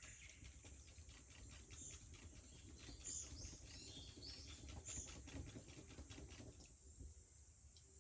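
Faint crackling of a wood fire, rapid small pops that thin out near the end, with a few short bird chirps in the middle over a steady high buzz of summer cicadas.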